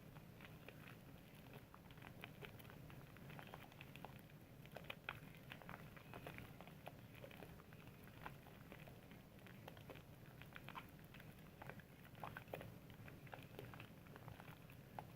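Soap being lathered with wet hands: faint squishing and fine crackling of foam, with many small irregular pops and clicks.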